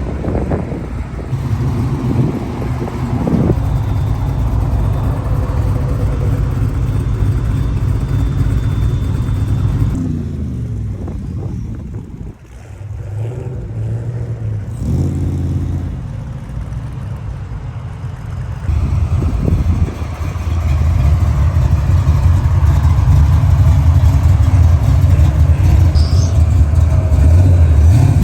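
Car engines running in slow traffic, one revving up and easing off in the middle, then a steady, louder engine rumble over the last several seconds.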